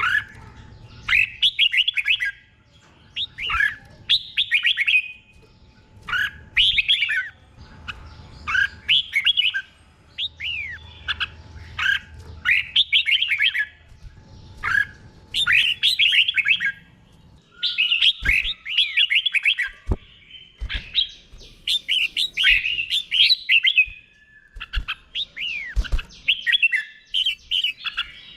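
Red-whiskered bulbul singing short, warbled whistled phrases over and over with brief pauses between them, in the slow, repeated song style that is played to cage bulbuls for them to copy. A few low knocks come in the second half.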